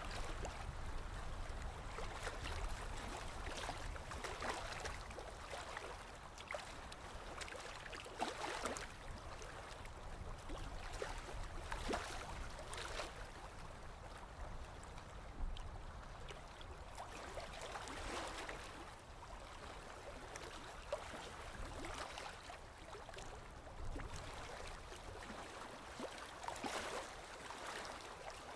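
Small sea waves lapping and washing, a steady hiss of water that swells into a soft rush every few seconds.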